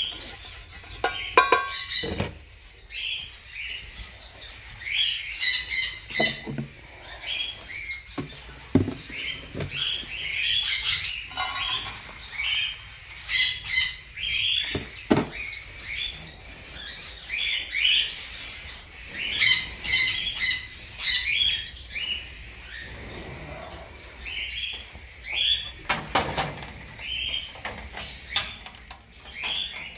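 Aviary birds chirping, giving many short, high calls one after another, with a few sharp knocks in between.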